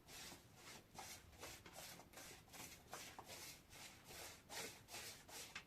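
Faint, quick scraping strokes in a steady rhythm, about three a second.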